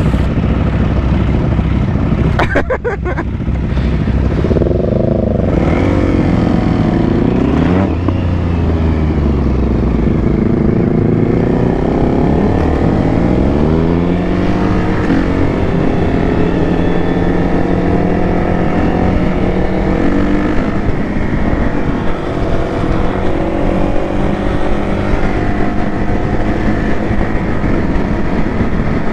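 Motorcycle engine under way. Its revs climb and drop a few times in the first half as it pulls through the gears, then hold fairly steady while cruising.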